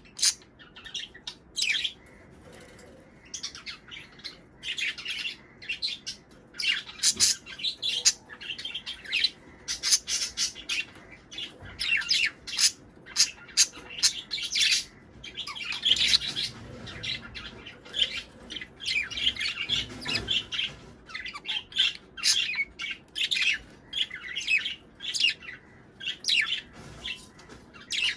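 Budgerigars chattering: many short, sharp chirps and squawks, several a second, tumbling over one another without pause.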